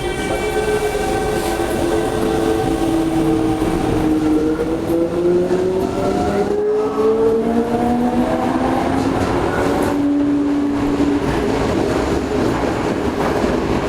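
Toei 5300 series electric train running, heard from inside the car. Its motor and inverter whine is a set of tones that sink over the first few seconds, then climb, and the last steady tone stops about eleven seconds in, over the rumble and clatter of wheels on rail.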